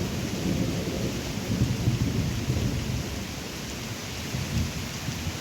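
Thunder rumbling through steady rain during a thunderstorm; the rumble swells over the first couple of seconds, eases, then rises briefly again near the end, with the rain hissing throughout.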